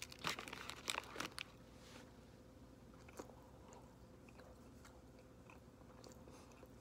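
A person chewing a bite of sandwich close to the microphone: a cluster of crunchy crackles in the first second and a half, then quieter chewing with a few faint clicks.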